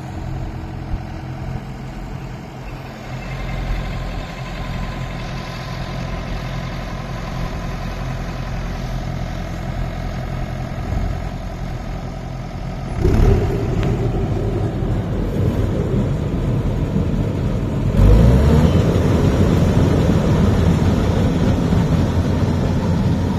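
Massey Ferguson 241 tractor's diesel engine running steadily, then growing louder and rougher about halfway through and again a few seconds before the end.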